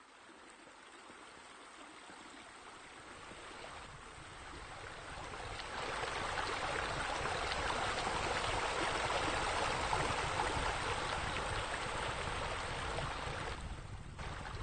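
Water pouring from a pool rain screen water feature, a steady rushing splash that builds over the first six seconds, holds, and eases near the end.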